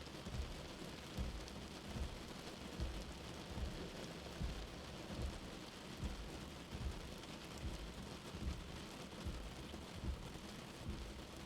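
Steady rain, as heard from inside a house, mixed with a soft heartbeat: a low thump about 75 times a minute.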